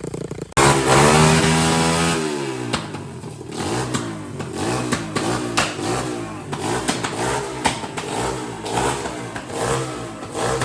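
Pit bike engine revved hard about half a second in and then blipped repeatedly, its pitch rising and falling about twice a second.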